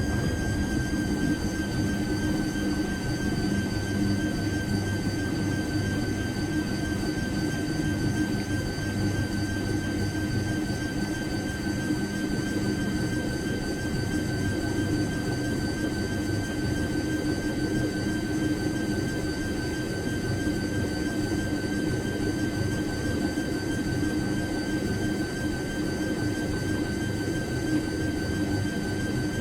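Washing machine in its spin cycle at full drum speed: a steady high motor whine over the rumble of the spinning drum.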